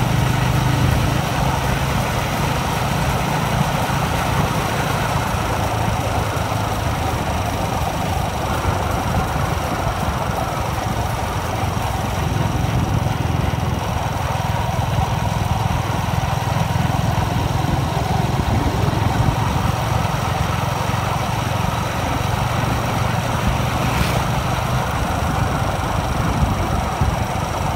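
Yamaha R15 V3's 155 cc single-cylinder engine running steadily in sixth gear at about 40 km/h, with wind rushing over the phone's microphone while riding.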